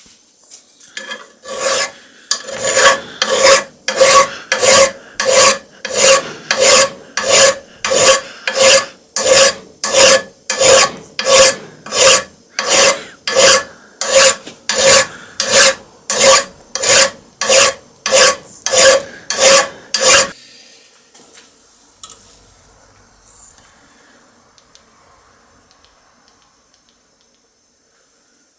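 A hand file rasping on metal in steady back-and-forth strokes, about one and a half a second, each stroke carrying a slight metallic ring. The strokes stop suddenly about two-thirds of the way through.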